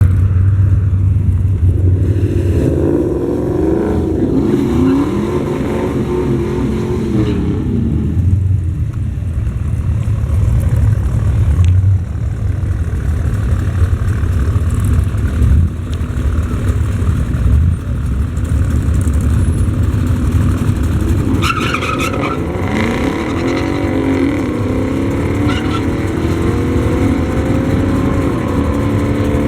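Loud engines of drag-racing cars running hard, their revs swinging up and down a few seconds in and again past the middle. Near the end an engine's pitch climbs steadily as it accelerates.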